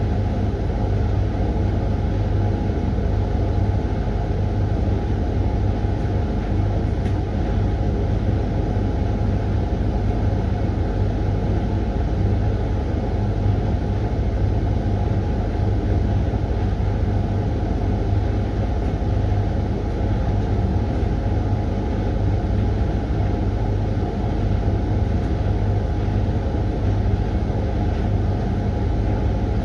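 Hoover washing machine running steadily near the end of its 20-minute Refresh programme: a continuous, even low rumble with a deep hum that does not change.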